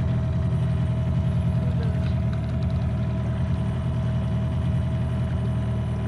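Boat's outboard motor running steadily at low trolling speed, a constant low hum with a steady higher tone over it.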